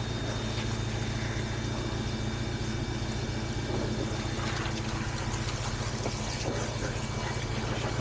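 An engine idles steadily under the hiss of a water jet from a washer spray gun rinsing mud off a sand track.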